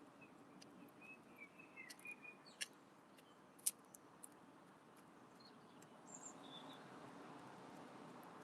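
Faint chirps of small birds, with a few sharp taps, the loudest about three and a half seconds in, over a quiet background.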